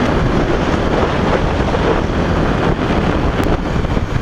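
Wind rushing over the microphone while riding a KTM 390 Duke, with the motorcycle's single-cylinder engine running underneath as a steady noise.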